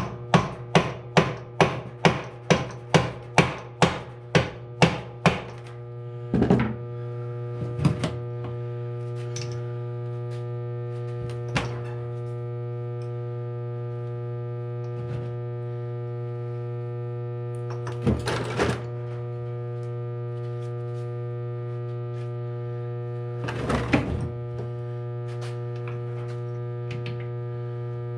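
Tool knocks during a motorcycle engine teardown: a quick run of sharp taps, about three a second for five seconds, then a few scattered single knocks and clunks, over a steady electrical hum.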